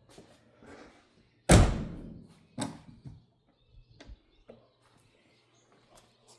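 A loud single bang about a second and a half in that rings out briefly, followed by two lighter knocks about a second later.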